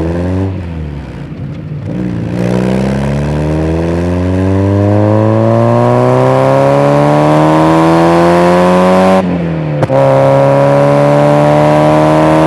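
Mazda MX-5 NA's 90 hp four-cylinder engine accelerating hard through the gears: a gear change about half a second in, revs climbing steadily for some seven seconds, a quick upshift about nine seconds in, then revs climbing again.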